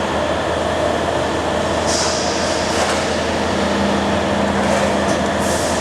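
CO2 laser cutting machine running: a steady mechanical drone with a low hum, broken by brief hissing bursts about two seconds in and again near the end.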